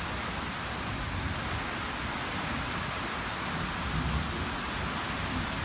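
Heavy rain falling steadily in a thunderstorm, a continuous even hiss, with a low rumble swelling briefly about four seconds in.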